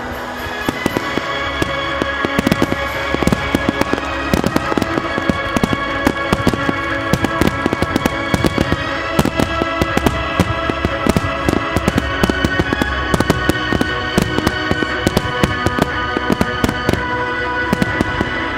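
A rapid-fire salvo of aerial firework shells: dozens of sharp bangs from launches and bursts, beginning about a second in and coming thick and fast from about four seconds on. Music plays throughout beneath the bangs.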